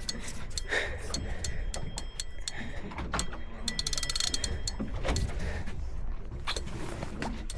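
Fishing reel clicking in quick runs of ticks as line is worked against a large fish, densest about four seconds in, over a low rumble.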